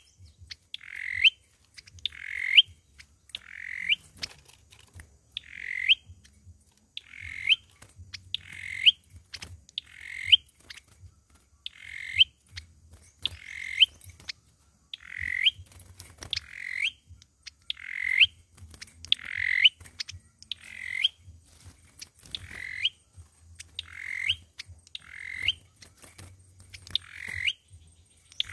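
A sâu dừa bird calling over and over, about once a second. Each call is a short note with a quick upward sweep.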